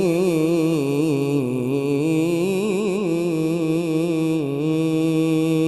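A qari's voice reciting the Quran in melodic tajwid style, holding one long ornamented note that waves up and down in quick turns. About four and a half seconds in it settles on a steady pitch.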